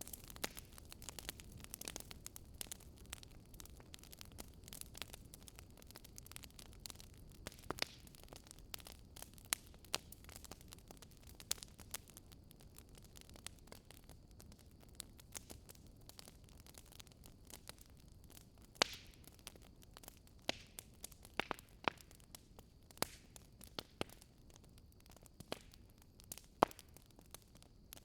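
Wood fire burning: a faint low rumble of flames with irregular sharp crackles and pops from the burning logs, a few louder pops in the second half.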